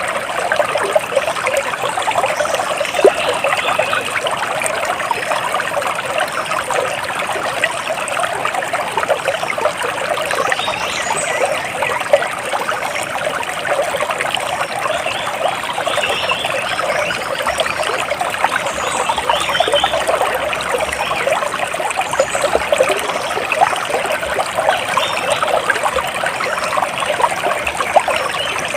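Water splashing and trickling steadily, like a small stream running over stones. A few faint, short bird chirps are heard over it now and then.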